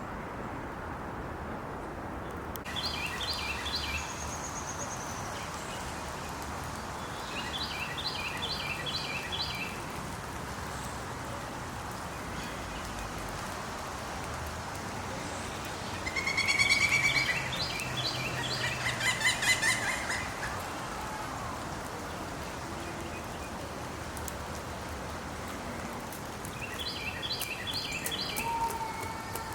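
A woodpecker calling in four bouts, each a quick run of repeated harsh notes, the loudest bout about halfway through, over a steady outdoor hiss.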